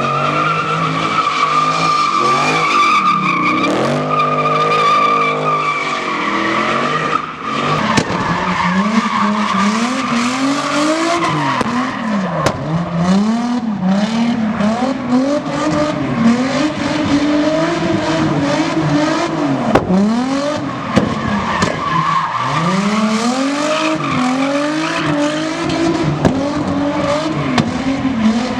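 A vehicle doing a burnout. Its tyres squeal steadily for the first several seconds, then the engine is revved up and down over and over, each rev lasting a second or two, under the tyre noise.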